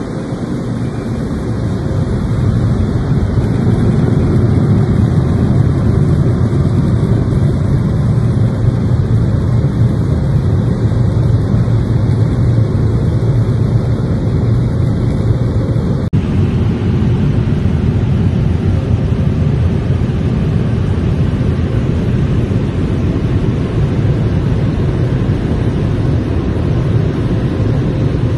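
Touchless car wash dryer blowers running: a loud, steady rush of air.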